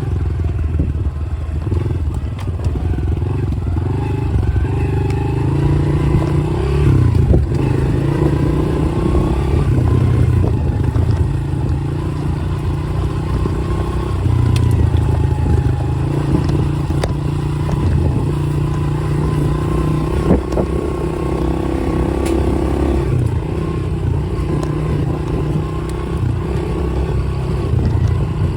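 Dirt bike engine running while being ridden, its pitch rising and falling with the throttle, with a few scattered knocks and clatters.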